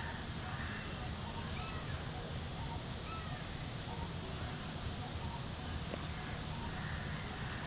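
Faint, short bird chirps repeating every second or so over a steady background hiss.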